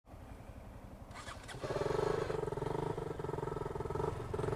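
Motorcycle engine running, a low rumble at first that gets steadily louder and fuller from about a second and a half in.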